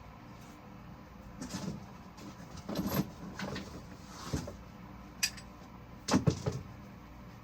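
Metal parts of an injector-cup puller being taken apart and handled: a series of irregular clinks and clunks of steel pieces, the loudest about six seconds in.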